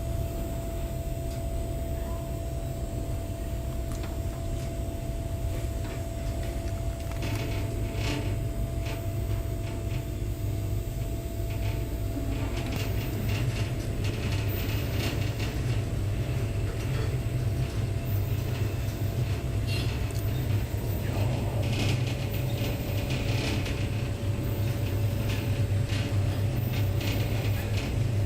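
Train carriage running on the Trans-Siberian Railway, heard from inside: a steady low rumble with a faint steady hum. From about halfway through, frequent creaks and rattles from the carriage join in.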